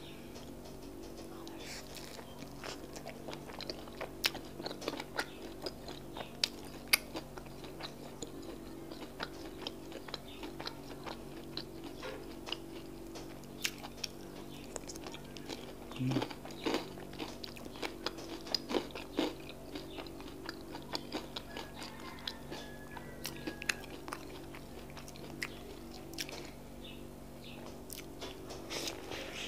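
Close-miked chewing and biting of akara, Nigerian fried bean cakes dipped in custard: a steady run of small crunchy, wet mouth clicks.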